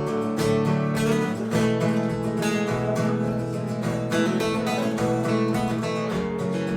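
Instrumental break of a pop song: strummed acoustic guitar with accompaniment and a steady beat, no singing.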